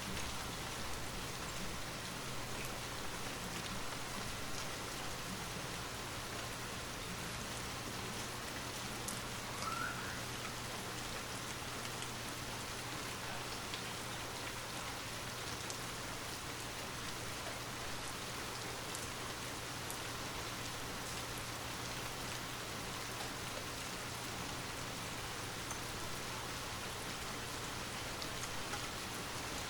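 Steady rain falling, an even hiss of drops on surfaces, with a low steady hum underneath.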